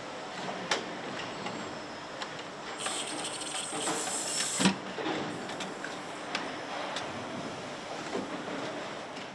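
Factory-floor machinery noise on an engine assembly line: a steady mechanical hum with scattered metallic clanks, and two stretches of high air hiss, about two seconds and then one second long, midway through.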